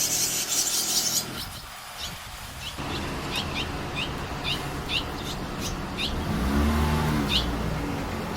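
Barn swallows chirping: a dense flurry of high chirps in the first second, then short separate chirps about twice a second. A low engine hum, like a passing vehicle, rises and fades about six to seven and a half seconds in.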